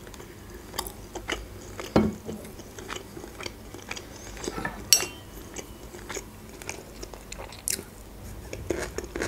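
Close-miked eating sounds: chewing and crunching with wet mouth noises, broken by scattered sharp clicks and knocks, the loudest about two and five seconds in.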